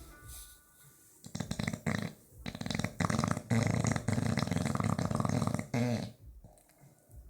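Bulldog snoring with a fast fluttering rattle, like a motorbike with a broken exhaust: a shorter snore about a second in, then a long loud one of about three and a half seconds that ends in a wavering tone.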